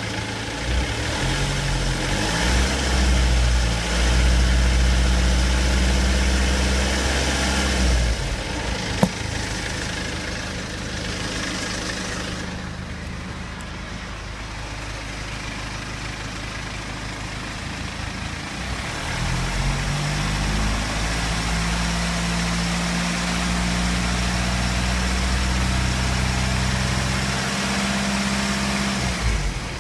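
BMW 320d's N47 two-litre four-cylinder diesel engine idling and twice revved up and held at a raised speed, dropping back to idle between, with a single sharp click about nine seconds in. The engine is run for its scraping or rattling noise, which the owner suspects comes from the timing chain.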